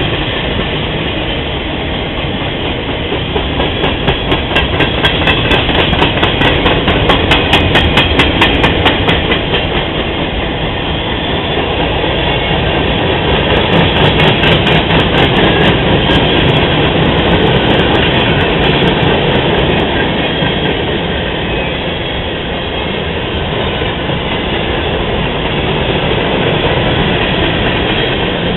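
Freight train cars rolling past close by, a steady loud rumble with spells of rapid, regular wheel clicks over the rail joints.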